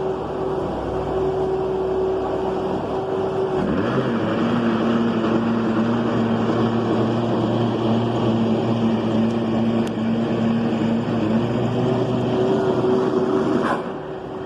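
Skid steer loader's engine running hard, revving up about four seconds in and holding a steady high pitch, then easing off near the end.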